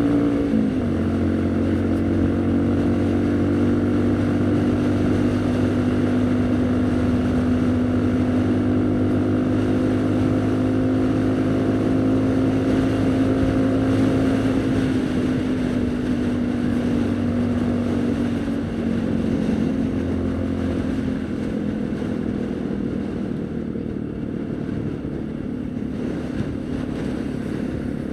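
Haojue NK150's single-cylinder engine running under way. Its note drops about half a second in, then holds a steady cruise, sinking slowly in pitch, and after about 19 seconds it fades as the bike eases off, with a little wind noise.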